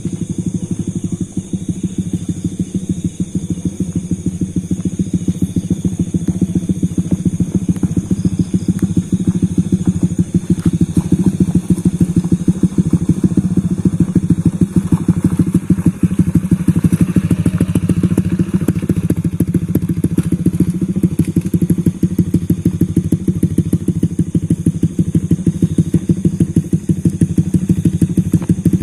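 Motorcycle engine running steadily with a fast, even beat while riding, then cutting off abruptly at the very end.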